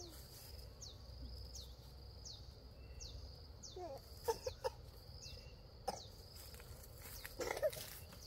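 Countryside ambience: a bird repeating a short, high, falling whistle about once a second over a steady high insect drone, with a few soft clucks and knocks around the middle and again near the end.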